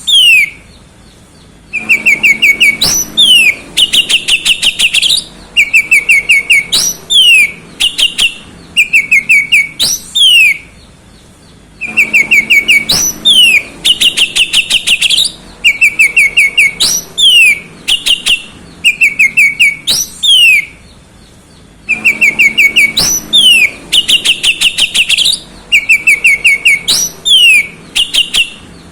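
Oriental magpie-robin (kacer) singing loudly in repeated phrases of short whistled notes, quick downward-sweeping whistles and fast trills, broken by short pauses, with the same sequence coming round about every ten seconds.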